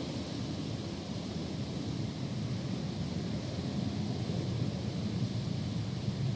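Strong storm wind blowing steadily with a rushing noise, buffeting the microphone.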